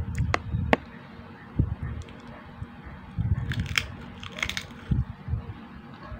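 Crisp chicharon (fried pork rinds) being bitten and chewed close to the microphone: sharp crunches, with a thicker burst of crunching about three and a half to four and a half seconds in.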